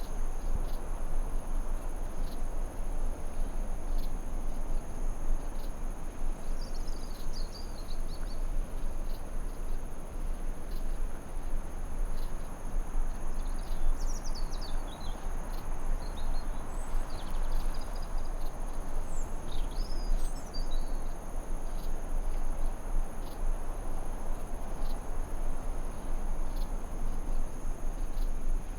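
Forest ambience: a steady high-pitched insect chorus, with a few short bird chirps and trills around the middle, over a low, even rushing noise.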